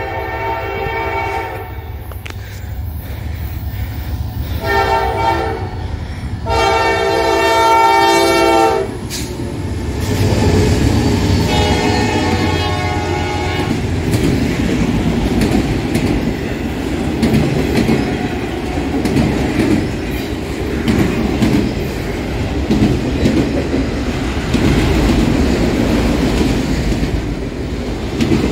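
Diesel freight locomotive's multi-chime horn sounding three blasts: one ending about a second in, a short one, then a long one, the pattern of a grade-crossing signal. From about ten seconds in the train passes close by, a steady rumble with wheels clicking over rail joints, and a fainter horn blast comes a couple of seconds later.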